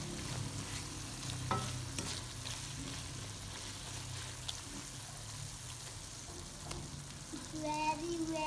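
Okra masala sizzling in an aluminium pan while a wooden spatula stirs and scrapes it, with a few short scrapes of the spatula against the pan standing out.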